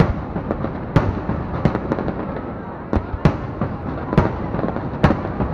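Aerial fireworks display bursting: sharp, echoing bangs roughly once a second over continuous noise from the ongoing show.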